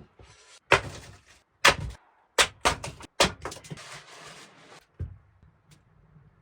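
A series of sharp knocks and thuds, about five in the first three seconds, followed by a couple of seconds of rustling and scraping.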